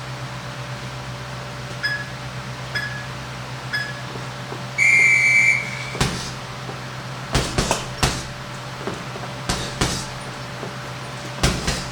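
A boxing round timer beeps three short times about a second apart, then gives one long beep that starts the round. From about six seconds in, punches land on a heavy bag, thudding in quick combinations of two or three. A steady low hum runs underneath.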